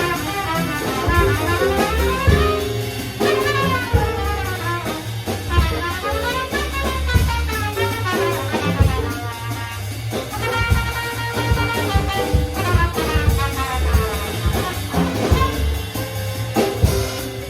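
Jazz quintet of trumpet, vibraphone, piano, bass and drums playing a swing tune, with a horn lead over bass and drum kit and repeated quick rising and falling runs of notes.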